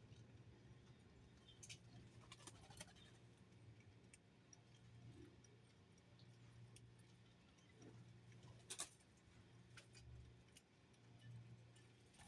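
Near silence: a low steady hum with scattered faint clicks and taps, the clearest near the end.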